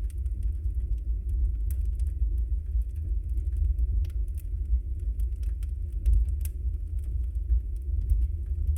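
Wood fire burning in a fireplace: a steady low rumble of the flames, with scattered small sharp crackles and pops from the burning logs.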